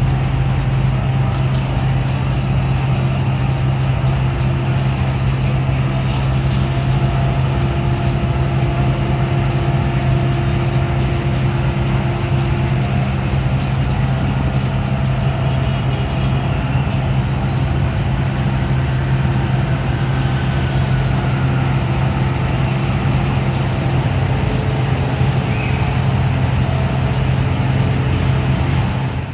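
Fire truck engine running steadily at a constant low pitch, with street noise around it.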